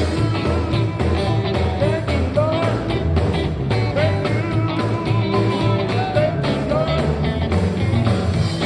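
Live Sacred Steel gospel band playing: a steel guitar slides up into its notes over a driving bass and drums.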